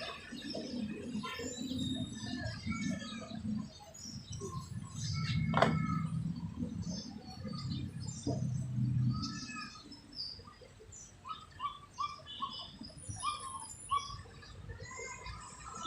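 Birds chirping in short, repeated calls, with a low rumble in the first half.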